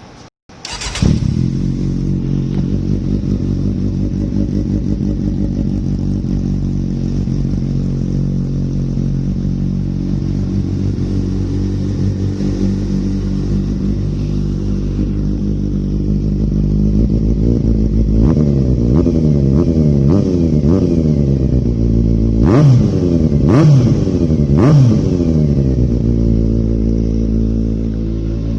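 Kawasaki Z800's inline-four engine through an SC-Project aftermarket exhaust, idling steadily and loudly, then revved repeatedly in the second half with three sharp throttle blips before settling back to idle.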